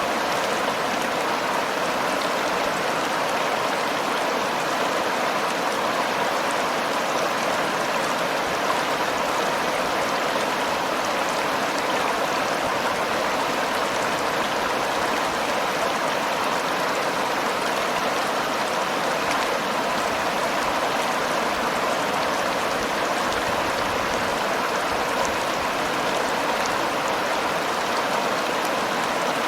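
Steady rush and splash of river water flowing over rocks: the Seomjin River's current, even and unbroken.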